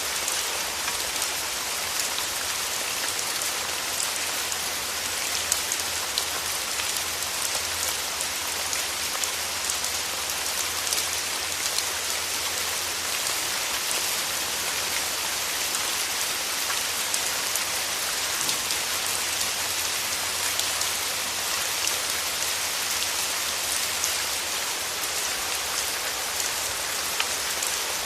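Steady rain falling and pattering on a surface, a dense even hiss with many small drop ticks.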